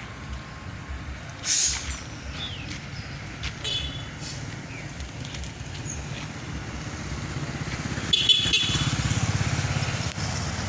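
A motor vehicle engine running with a steady low rumble that grows louder about eight seconds in. Two short bursts of noise come about a second and a half in and again as the rumble swells.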